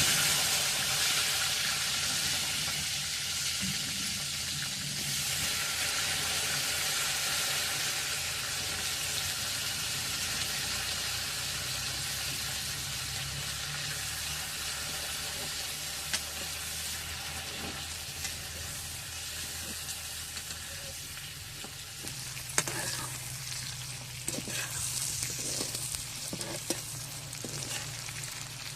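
Food dropped into hot oil in a cooking pan, starting with a sudden loud sizzle that settles into steady frying and slowly fades. Toward the end, knocks and scrapes of stirring sound over the sizzle.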